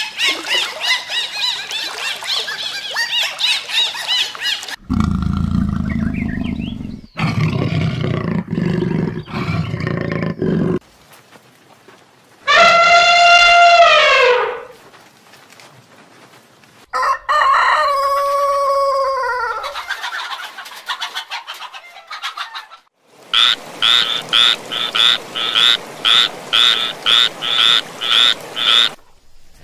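A run of different animal calls: dolphin clicks and whistles at the start, then elephant calls, low rumbles followed by two higher calls that fall in pitch, and near the end a tree frog croaking in a regular series about twice a second.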